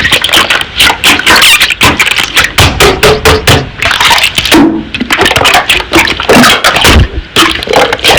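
Slime being squeezed, pressed and poked by hand, giving a rapid, irregular run of sticky clicks and pops.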